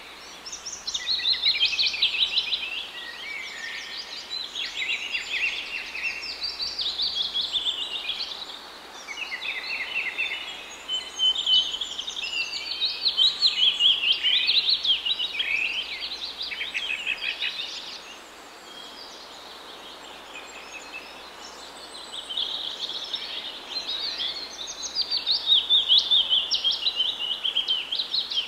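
Songbirds singing: high, fast chirping trills and repeated phrases that come in bouts, with a lull of a few seconds about two-thirds of the way through.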